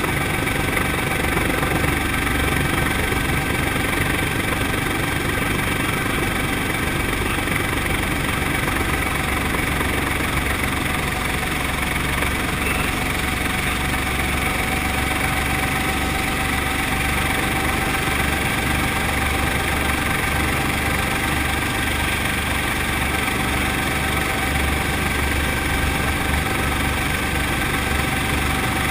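Brantly B2B helicopter's four-cylinder piston engine and rotor running steadily, a constant engine drone with a low rhythmic beat and a few steady tones.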